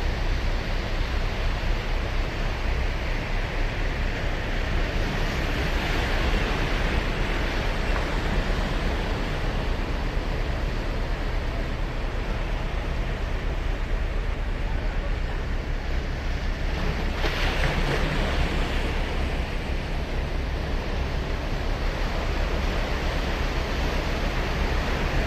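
Ocean surf breaking and washing on a sandy beach in a continuous steady roar. Waves swell louder about a quarter of the way in, and a sharper wave break comes about two-thirds of the way through.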